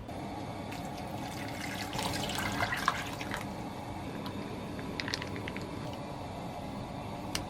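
Water running and splashing during kitchen prep, busiest a couple of seconds in, with a few light clinks about five seconds in and a sharp click near the end.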